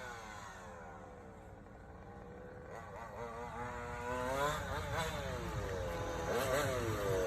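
Two-stroke engine of a homemade ride-on toy car, its revs dropping away and fading, then picking up again with a few quick blips of the throttle before settling to a steadier run.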